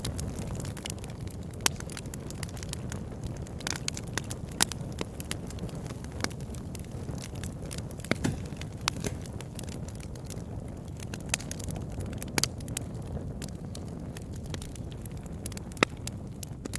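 Campfire burning with a steady low rumble, crackling with irregular sharp pops and snaps, a few louder ones standing out.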